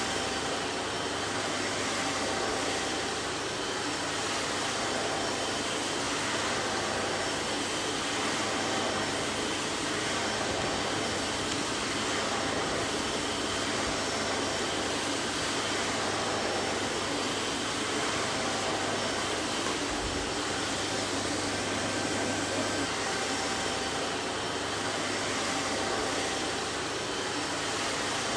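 Vacuum cleaner running steadily, a constant whooshing noise with a faint whine in it.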